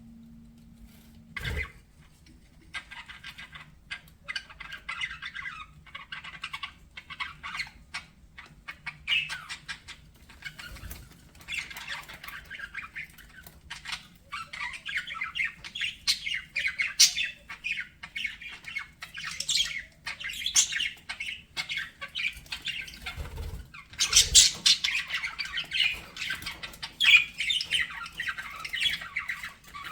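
Budgerigars chattering and warbling in a steady stream of quick chirps and squawks, louder in the last few seconds. A single sharp knock comes near the start.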